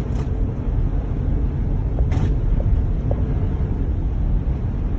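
Steady low road and tyre rumble inside the cabin of a 2019 Jeep Grand Cherokee driving on snow-covered roads, with a brief hiss about two seconds in.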